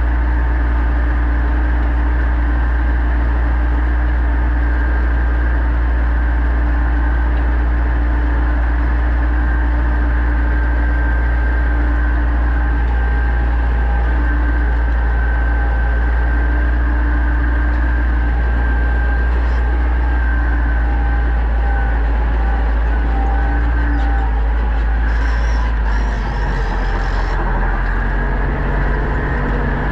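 Pronar 1025A tractor's diesel engine running steadily while pulling a plough, a loud low drone; about four seconds from the end its low note shifts and dips slightly, then carries on.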